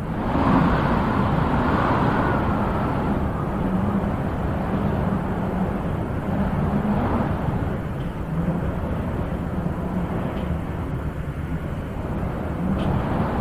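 Wind blowing in gusts, swelling about half a second in, again midway and once more near the end.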